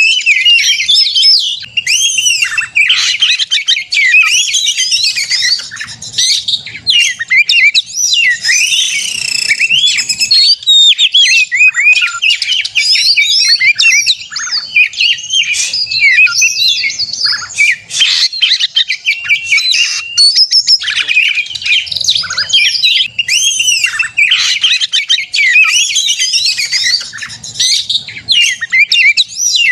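Oriental magpie-robin (kacer) singing on and on in its fierce fighting song (narung): fast, varied, high whistles and rattling phrases with no pause, the territorial song used to provoke other males.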